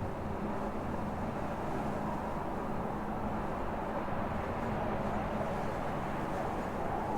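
Strong wind blowing in a steady, deep rush, swelling slightly near the end, as in a sandstorm.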